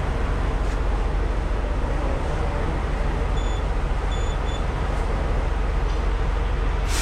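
Semi truck's diesel engine running with steady low rumble and road noise heard from inside the cab, with a few short high electronic beeps in the middle and a sharp click near the end.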